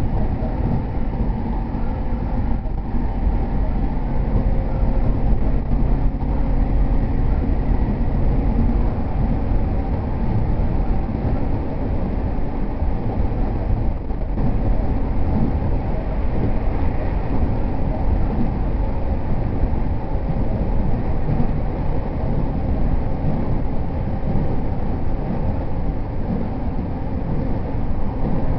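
JR E231 series 0 commuter train running between stations, heard from inside the passenger car: a steady rumble of wheels and running gear on the rails, with faint steady tones above it.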